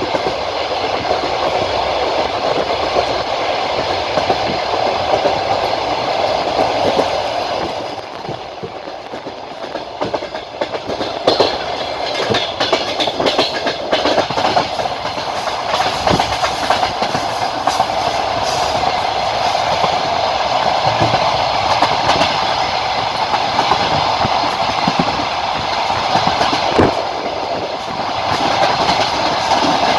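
Passenger train wheels running on the rails, heard from aboard: a steady running rumble with irregular clicks and knocks from wheels crossing rail joints. It eases briefly about eight seconds in.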